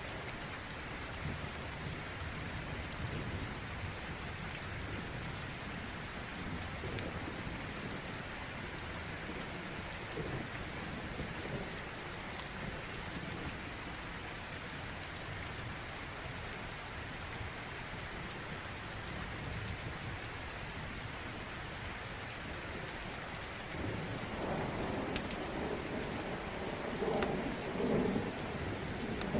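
Steady rain falling, with scattered small crackles from a wood fire. A low rumble of thunder swells up in the last five seconds.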